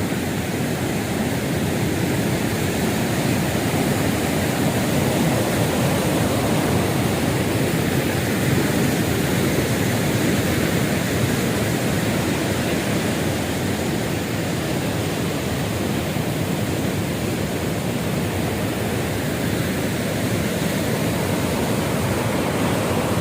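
Rushing water of a waterfall: a loud, steady, unbroken noise.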